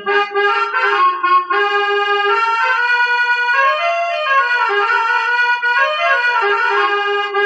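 Harmonium playing an instrumental passage of a devotional bhajan: a sustained, reedy melody moving up and down over held notes.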